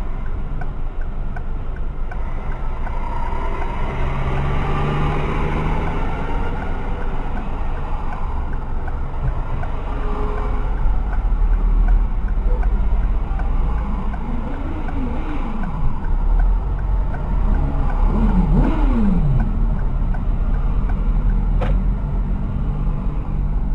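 Steady low rumble of a car on the road, engine and tyre noise. Around the middle the pitch rises and falls a few times, then a single sharp click comes near the end.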